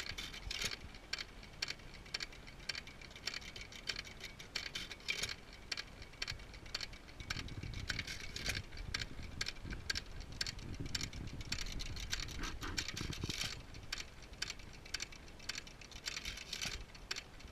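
1914 T. Eaton 1.5 hp hit-and-miss engine (Waterloo-built) running, with a quick clatter of clicks from its valve gear and igniter. Heavier low thumps of firing strokes come from about seven seconds in to about thirteen seconds. It has freshly installed rings that are not yet seated.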